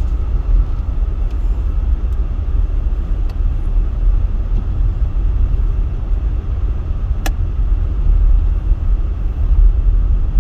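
Car cabin noise while driving on a snowy road: a steady low rumble from the road and engine, with the heater fan blowing. A few faint ticks come early, and one sharp click comes about seven seconds in.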